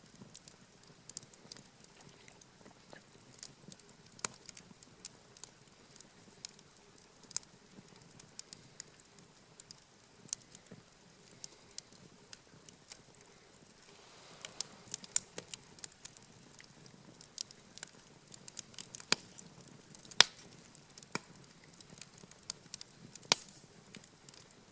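Wood campfire crackling, with irregular sharp pops and snaps over a faint low hiss; the pops come thicker and louder in the second half.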